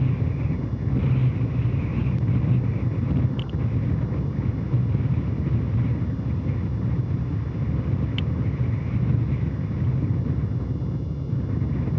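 Soyuz rocket in ascent, a steady low rumble with a few faint clicks, around the time its four strap-on boosters of the first stage burn out.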